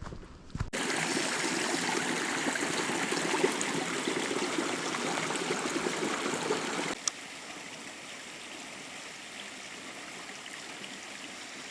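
Rushing water of a rainforest creek, a steady hiss with no rhythm. It is loud at first, then cuts abruptly to a quieter, steady flow about seven seconds in.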